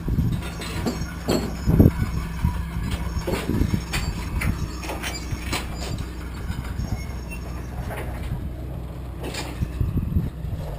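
Heavy engine idling steadily, with scattered metallic knocks and clanks over it.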